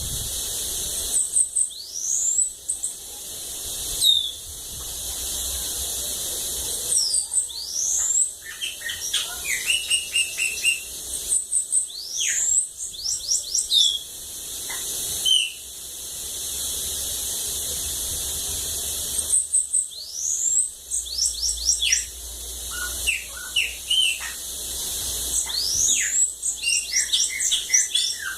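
Bananaquit (sibite) singing: short, high-pitched song phrases of quick rising and falling notes, repeated every few seconds, over a steady high hiss.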